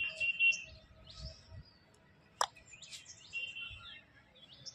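Small birds chirping in short, repeated calls, with one sharp click about two and a half seconds in.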